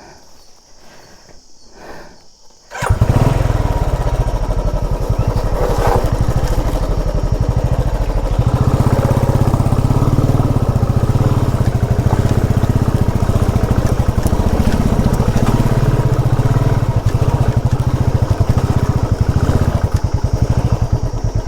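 Motorcycle engine starting up suddenly about three seconds in, then running steadily at a fairly even speed.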